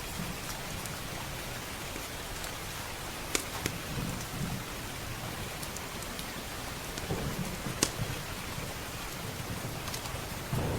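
Steady heavy rain on windows and roof, with low rumbles of thunder swelling a few times and louder near the end. A few sharp pops from a crackling wood fire stand out over the rain.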